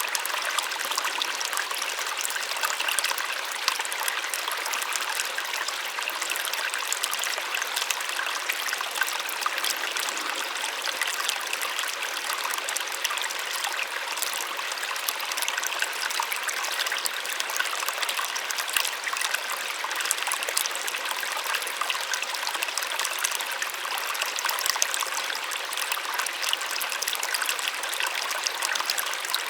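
Small waterfall splashing and trickling steadily, a soft rushing of water with no deep rumble.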